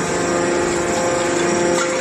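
Hydraulic scrap baler press running, a steady machine hum made of several constant tones over a broad mechanical noise.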